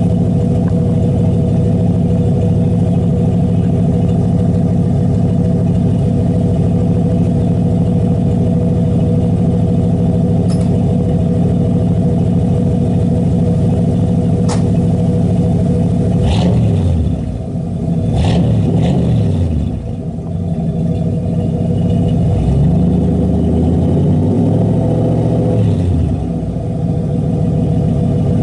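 1975 Ford F-150's 302 V8 with an Edelbrock four-barrel carburettor running at a steady speed, then revved up and let fall back several times in the second half.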